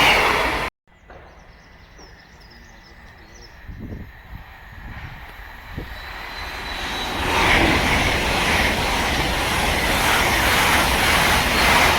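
A passing train: loud rushing noise that cuts off abruptly less than a second in, then another train approaching, its rushing and rumble growing from faint to loud over several seconds and staying loud to the end.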